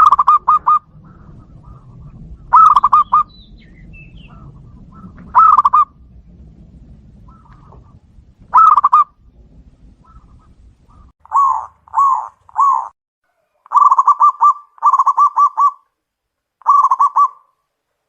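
Zebra doves (perkutut) cooing back and forth: short phrases of quick, rolling coo notes every few seconds. About eleven seconds in, the low background noise drops away and the calls come as three single coos, then three longer rolling phrases.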